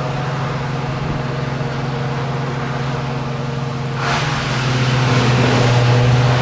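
A steady low mechanical hum, like an engine or motor running, with a rushing noise that swells in about four seconds in and stays louder.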